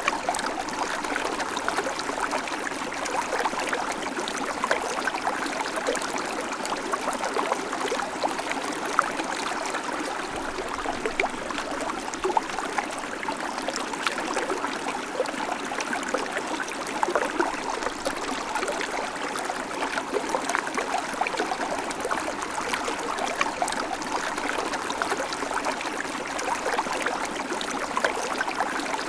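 Babbling creek: water running steadily over stones, a constant rush full of small, quick splashes and trickles.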